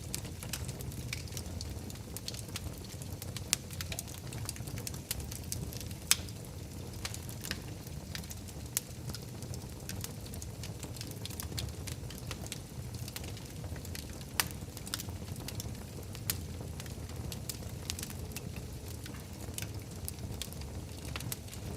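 Wood fire burning in a fireplace: a steady low rumble under constant crackling, with a few sharper, louder pops.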